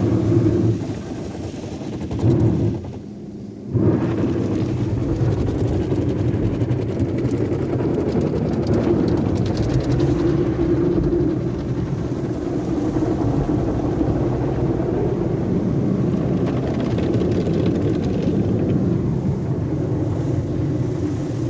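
Sonny's automatic car wash tunnel equipment running, a steady mechanical wash noise that drops briefly about three seconds in.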